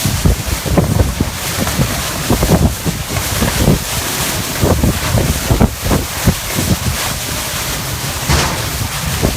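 Strong storm winds blasting the microphone in irregular, heavy gusts, a loud continuous rush with deep buffeting thumps.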